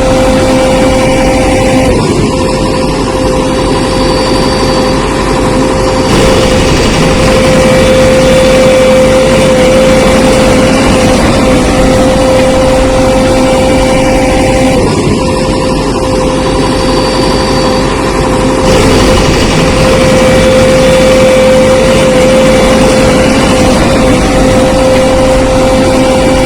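Engine sound effect for a cartoon tractor, running steadily with a constant whine, looped so that the same pattern comes round about every 13 seconds.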